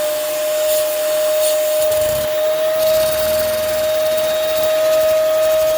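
Vacuum cleaner running with a steady whine and rush of air, its suction driving a Lego engine spinning a big flywheel.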